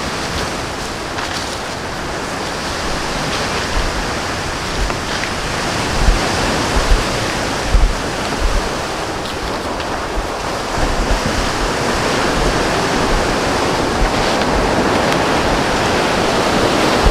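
Steady outdoor rushing noise, with wind buffeting the microphone in low thumps now and then, mostly in the middle.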